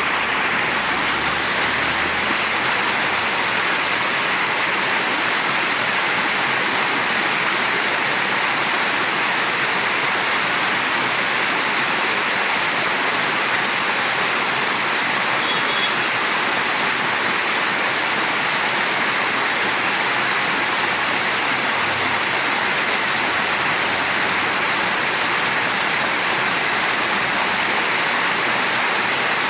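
Mountain stream rushing over rocks: a steady, dense splashing and gurgling of running water.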